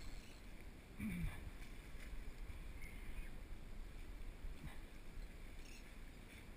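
Low, steady wind and water noise around a small boat, with a short falling-pitched sound about a second in.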